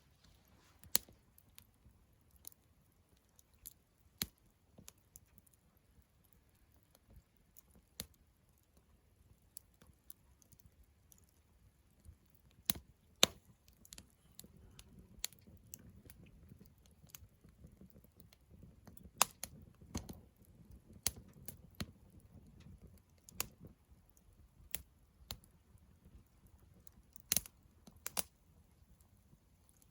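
Wood campfire crackling: irregular sharp pops and snaps of burning wood, one every second or two, over a faint low rumble of flame that swells through the middle.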